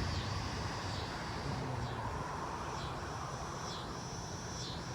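Insect calling over and over, each call a steady high buzz that drops in pitch at its end, about once a second, growing steadier from about two seconds in. Underneath, a low rumble of wind buffeting the microphone, strongest at the start.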